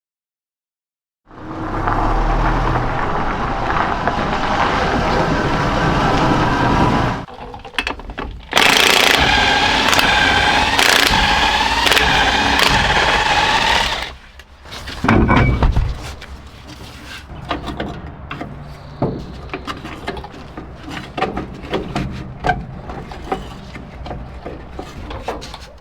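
A 1970 Chevrolet C10 pickup's engine running loud, starting about a second in after silence. Its pitch wavers up and down in the middle stretch, and it drops away at about fourteen seconds. Quieter clicks and knocks follow.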